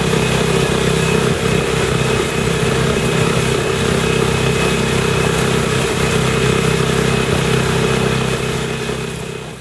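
Outboard motor on a kayak catamaran running steadily at cruising speed, with a hiss of water and wind over it. The sound fades away near the end.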